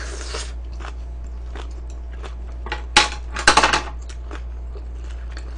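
Close-up crunching of crisp food: a soft rustle at the start, then a sharp crackly crunch about three seconds in, followed by a quick run of crunches lasting about half a second.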